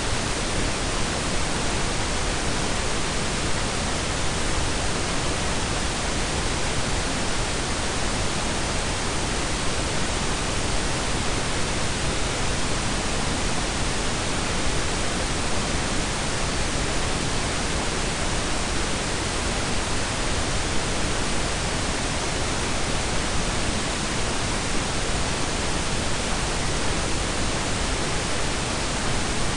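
Steady synthetic pink and brown noise blended together: an even, unchanging hiss with a deep rumble underneath, cut off above the upper treble.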